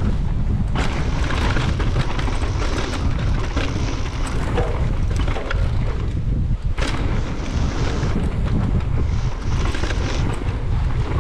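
Wind buffeting the microphone of a mountain biker riding fast, a heavy steady rumble, with the hiss and rattle of tyres rolling over a dirt trail rising and falling.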